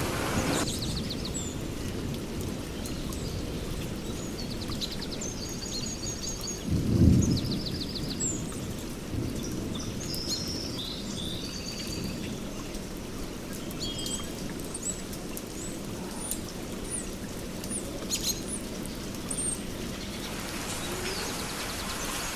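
Steady rain falling, with a short low thunder rumble about a third of the way in. Birds chirp and whistle through most of it.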